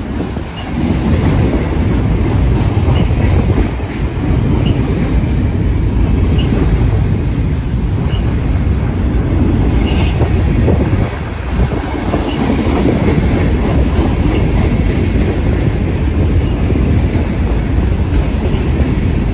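Freight cars of a mixed freight train rolling past close by: a loud, steady rumble of steel wheels on the rails with clickety-clack, faint regular ticks, and one sharp click about ten seconds in.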